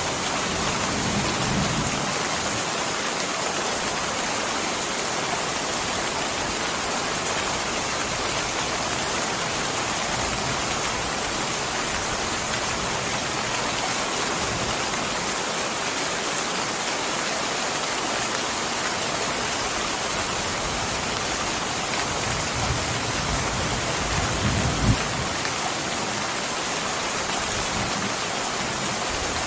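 Steady, dense rainfall with a low rumble about a second in and again for a few seconds about three quarters of the way through, with one brief sharper peak in that second rumble.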